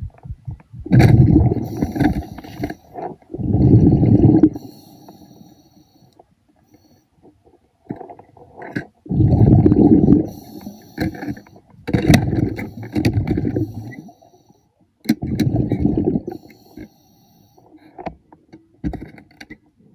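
Diver breathing through a regulator underwater: bursts of exhaled bubbles, about five in all, each lasting a second or so, with quieter gaps between breaths.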